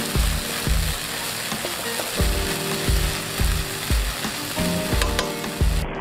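Chopped chillies and spring onions sizzling in hot oil in a wok, stirred with a steel spatula. Background music with a steady beat plays underneath. The sizzle cuts off suddenly near the end.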